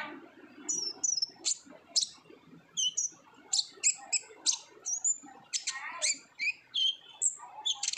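Van Hasselt's sunbird (kolibri ninja) in full song: a rapid, unbroken string of sharp high chips and short slurred whistles, several notes a second.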